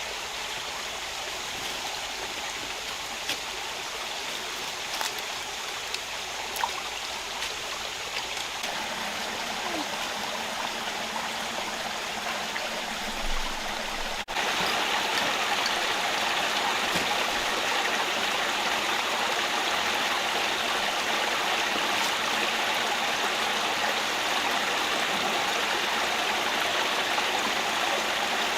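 Rocky rainforest stream rushing over stones, a steady rush that jumps louder about halfway through. A few faint clicks sound in the first half.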